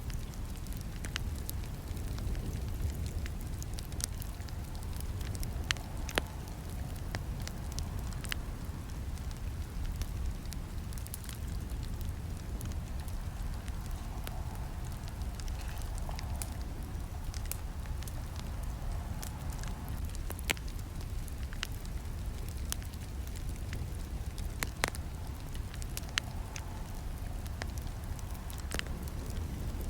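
Campfire burning: a steady low rumble of flames with scattered, irregular sharp crackles and pops from the burning wood.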